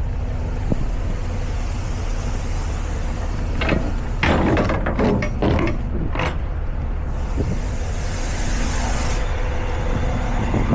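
Semi-truck engine drone and road rumble heard inside the cab while driving, with a few sharp rattles or knocks about four to six seconds in and a brief hiss a couple of seconds later.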